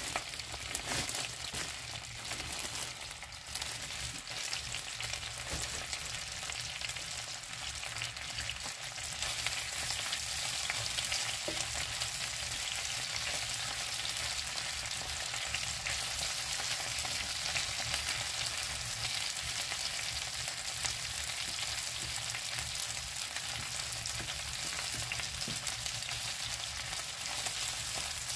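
Chicken wings sizzling as they fry in oil in a nonstick pan, stirred and turned with a wooden spatula. The sizzle is steady and grows louder about nine seconds in.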